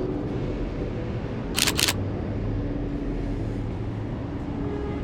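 Sony A7 IV camera shutter firing, a quick double click about a second and a half in, over a steady rumble of city street traffic.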